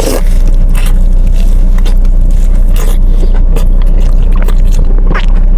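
Close-miked chewing of food, with many short crunchy clicks over a steady low rumble.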